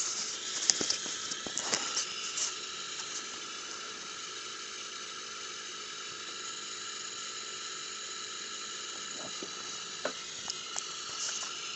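Land Rover Td5 diesel's fuel pressure regulator giving a steady, high-pitched hiss with a whistling edge, an irritating noise the owner calls absolutely abnormal. A few light clicks come in the first few seconds and again near the end.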